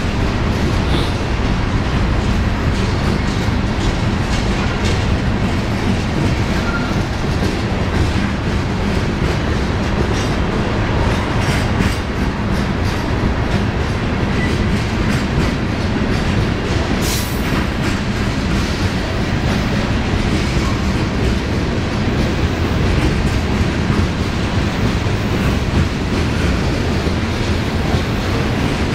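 Freight train cars rolling past at close range: a steady loud rumble with wheels clicking over rail joints and a brief high squeal about two-thirds of the way through.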